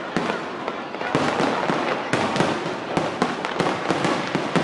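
Fireworks display: dense crackling with a rapid string of sharp bangs, several a second.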